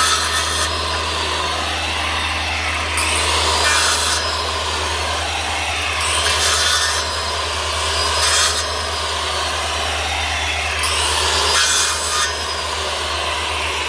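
Electric power saw cutting firewood into short pieces: the motor runs steadily and its pitch sags each time the blade bites, with about five loud cuts through the wood.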